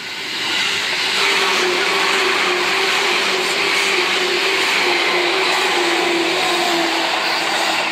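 Seibu 2000-series electric commuter train passing close by: a loud, steady rush of wheels on rail. Through it runs a hum that slowly drops in pitch as the cars go by.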